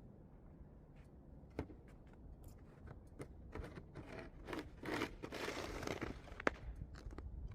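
Snow crunching and scraping, with scattered sharp clicks, loudest over a few seconds in the middle.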